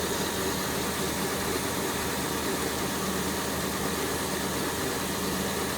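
2002 Kia Sedona's 3.5-litre V6 idling steadily with its belt-driven accessories turning. The owner is chasing a growling noise from the timing-belt and serpentine-belt side, which he suspects comes from a bad pulley.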